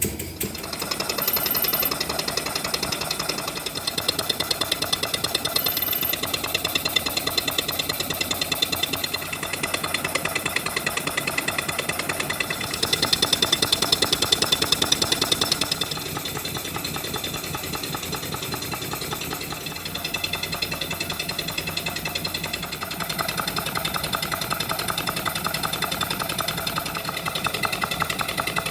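Small model engine running with a fast, even beat. It grows louder for a few seconds about halfway through, then settles back.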